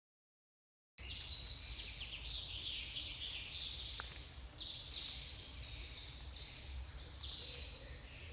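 Magpie calling in runs of short, rapid chattering notes, starting about a second in, over a low background rumble.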